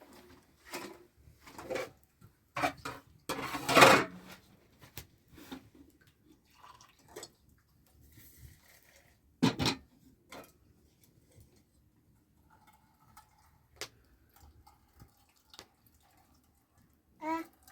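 Kitchen handling sounds: scattered knocks and clinks of pots, dishes and utensils being moved. About four seconds in there is one louder scrape or rush.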